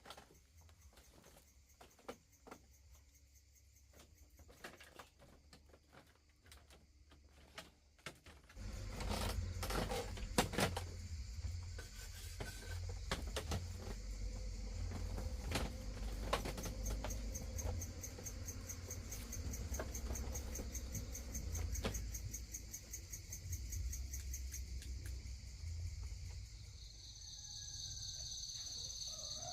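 Night insects, crickets, chirping in a fast pulsing high trill, with scattered light clicks and knocks. From about eight seconds in a steady low rumble comes up underneath.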